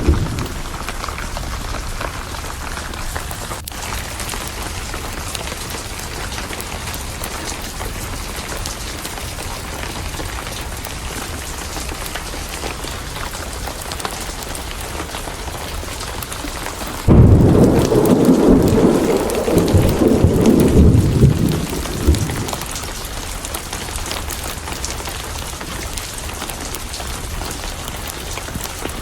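Steady rain with a thunderclap that breaks suddenly about seventeen seconds in and rumbles for about five seconds before fading back into the rain.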